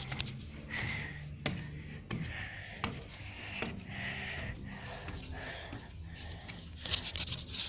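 Footsteps at a steady walking pace, a step about every 0.7 s, with rustling and breathing close to the microphone.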